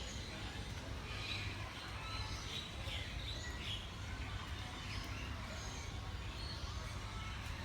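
Aviary birds chirping, a string of short high calls that are busiest in the first half, over a steady low rumble.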